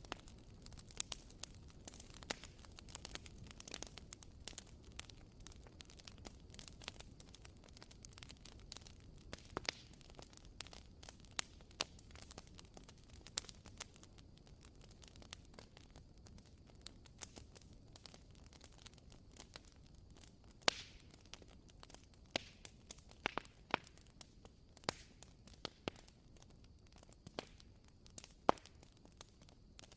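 Wooden wick of a WoodWick candle crackling: irregular small sharp pops and clicks, like a tiny campfire, with a few louder pops near the end.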